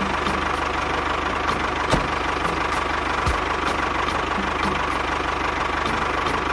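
Engine idling steadily, a dense even chug with faint regular ticks about three times a second.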